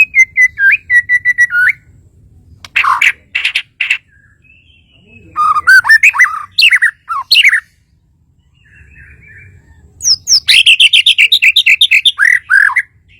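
Bornean shama (murai batu Kalimantan) singing loud, varied whistled phrases in four bursts: a quick run of repeated notes, three sharp notes, a string of rising and falling whistles, and a fast trill ending in a few falling notes.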